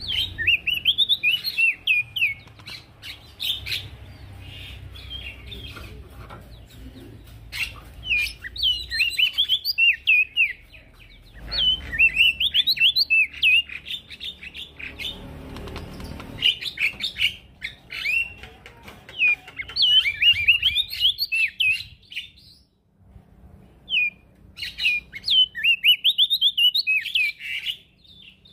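Male prenjak daun singing: repeated phrases of fast, jumping high chirps, each phrase a few seconds long with short pauses between.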